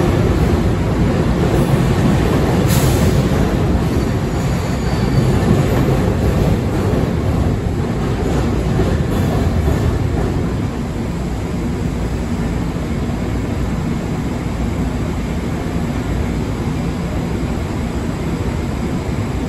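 A Budd M3 electric multiple-unit train pulling out of an underground platform, its wheels rumbling on the rails as the last cars pass. The rumble eases a little about halfway through as the train runs into the tunnel. There is one sharp click about three seconds in.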